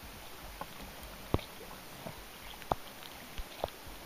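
Rain falling on a kayak and the lake: a soft steady hiss with scattered sharp taps of drops landing close by, the clearest about a second and a half in and again near three seconds in.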